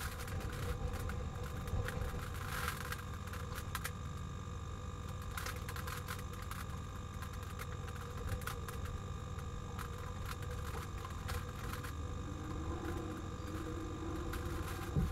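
Steady low rumble of a vehicle idling, with scattered light taps.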